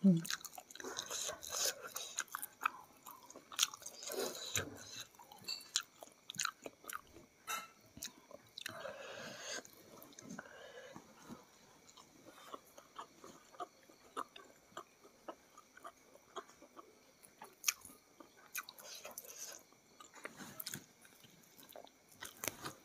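A person eating fried village chicken and rice by hand, close to the microphone: chewing and biting, with many small irregular clicks and crunches.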